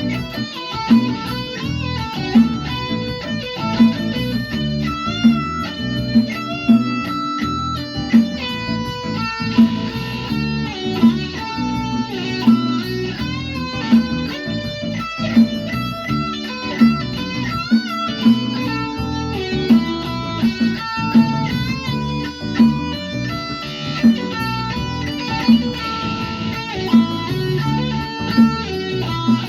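Guitar music: a plucked, likely electric guitar playing a busy melody of quick notes, with a sharp accent about once a second.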